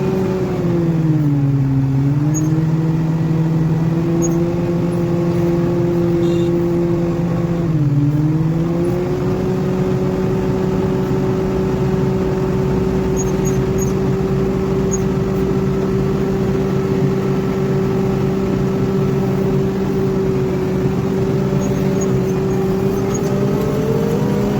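Motor grader's diesel engine running steadily under work. Its pitch sags twice as it takes load, briefly about a second in and again around eight seconds, then recovers, and it rises a little near the end.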